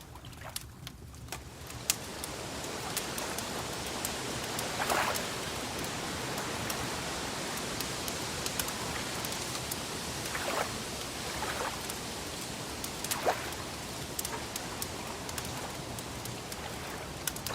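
Wood fire crackling: a steady hiss with scattered sharp pops and crackles, and a handful of louder, softer swishes spread through it.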